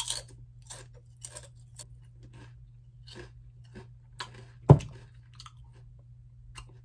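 A ridged potato chip bitten with a crunch, then chewed with short crunches about two to three a second. There is one loud thump about two-thirds of the way in.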